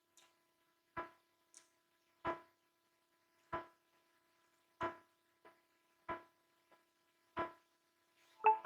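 Evenly spaced knocks, about one every 1.3 seconds, each with a brief ringing tone, with a louder, brighter knock near the end.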